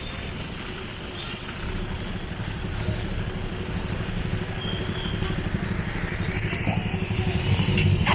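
A motor vehicle engine running and growing steadily louder as it draws near, over a steady hiss of rain.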